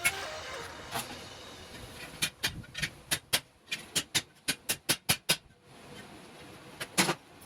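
A quick run of about a dozen sharp hammer blows on galvanized sheet steel, about three a second, with a single blow about a second in and another near the end.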